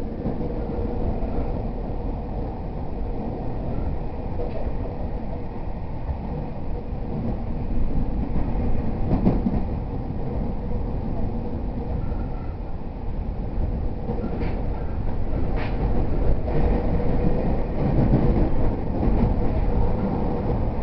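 Running noise heard inside an E231 series 0 commuter train between stations: a steady rumble of wheels on rail with a faint hum held on one pitch. A few sharp clicks come through, two of them close together about three-quarters of the way in.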